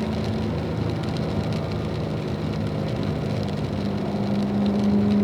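Car engine running on a wet track, quieter while coasting through a corner, then louder about four seconds in as the throttle comes back on, with a steady hiss of tyres and spray underneath.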